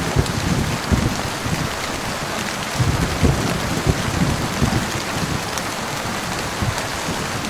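Heavy rain falling steadily, a dense even hiss, with low rumbles of thunder swelling and fading every second or two.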